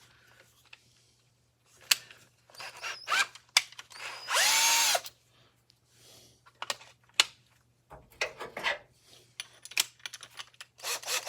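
Power drill driving out screws in short bursts, the longest about four seconds in, its motor whine rising and then falling as it spins up and stops. Sharp clicks and knocks of tools and metal parts come in between.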